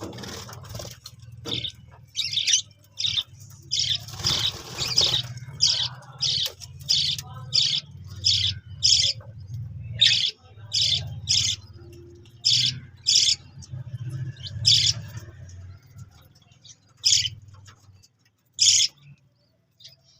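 Budgerigars chirping: a long series of short, sharp, high calls, about two a second at first and more scattered later, over a low steady hum.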